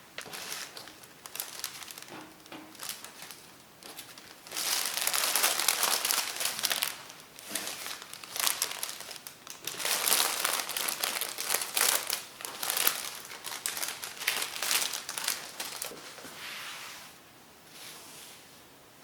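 Crinkly wrapping being crumpled and handled in irregular spells, loudest in two stretches in the middle and dying away near the end.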